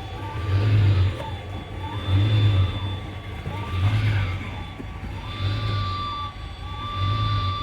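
1987 Ferrari Testarossa's flat-12 engine idling cold, its revs swelling and sagging in a regular cycle about every one and a half seconds. The engine is still searching for its idle, which the owner says is normal until it warms up and steadies out.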